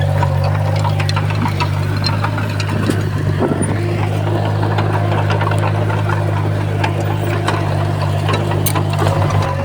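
Komatsu D51PX bulldozer's diesel engine running steadily, with scattered clicks and clanks over it.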